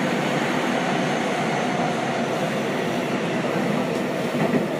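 Seibu 6000-series electric train running at speed through a tunnel, heard from inside the car: a steady, dense rumble of wheels on rail, with a faint steady motor tone.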